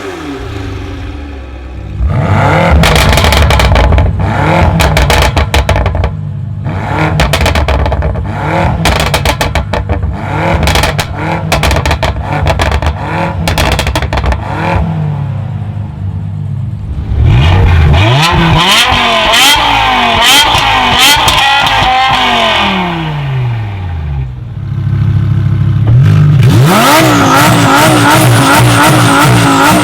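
Tuned performance car engines revved hard with straight-through exhaust. The first half is a run of quick throttle blips with a dense string of exhaust pops and bangs. Later come long rises and falls in revs, and near the end the revs are held high.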